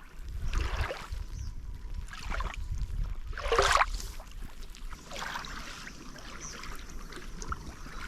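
Water splashing in a few separate surges, the loudest about three and a half seconds in, over a low steady rumble.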